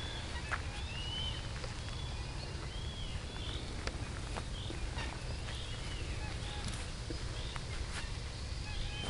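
Small birds calling repeatedly in short, arched chirps over a steady low rumble.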